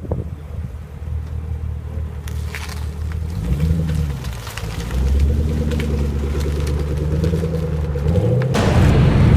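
2013 Camaro ZL1's supercharged 6.2-litre V8 running with a deep rumble, revving up about three and a half seconds in and holding a steady note, then rising again into a louder, rushing surge near the end.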